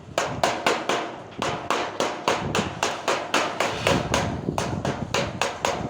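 A hammer striking repeatedly and quickly, about four to five sharp blows a second, with a brief pause around one and a half seconds in and another near four seconds.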